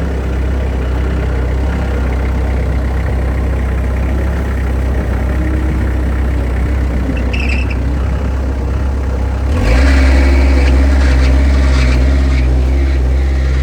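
Bobcat 763 skid-steer engine running steadily, with a brief high squeal about seven seconds in. About two and a half seconds later the engine note steps up and gets louder, with rattling from the machine.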